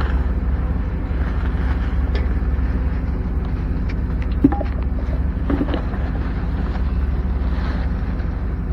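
A motor vehicle's engine running with a steady low rumble, with a single short knock about four and a half seconds in.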